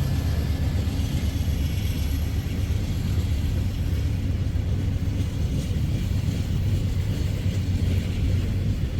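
Slow freight train rolling past: a steady low rumble of cars on the rails.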